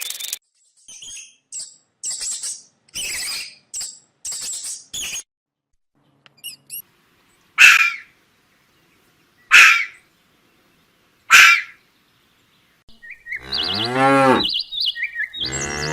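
A series of separate animal calls. First come quick high chirps, then three loud short calls about two seconds apart, then one longer, lower call whose pitch rises and falls, like a cow's moo.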